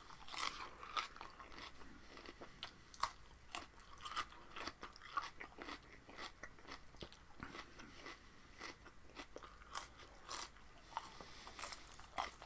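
Crunching and chewing of raw vegetables in the mouth. There are irregular crisp crackles, a few each second, with no talking.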